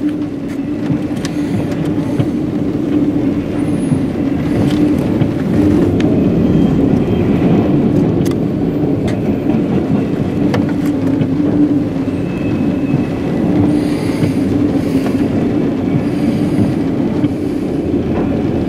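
Freight train of autorack cars rolling past close by: a continuous rumble of steel wheels on the rails, with a steady low hum under it.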